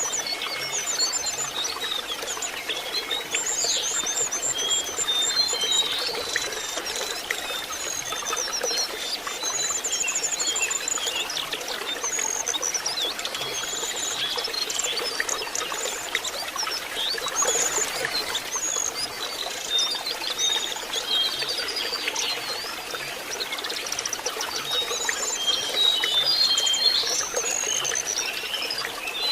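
Lesser shortwing song, a run of quick trills and whistles in many overlapping phrases, over a steady trickle of running water.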